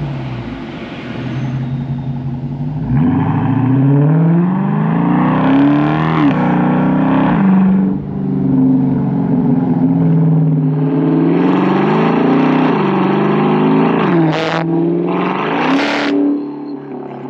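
Chrysler 300's Hemi V8 through Carven R mufflers with the resonator deleted: low, steady running at first, then the engine revs up and falls back several times. Two short sharp sounds near the end.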